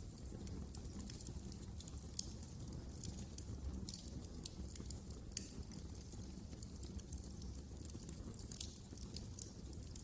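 Wood fire crackling in a fireplace: a steady low rumble of the flames with frequent small irregular pops and snaps, a few sharper ones scattered through.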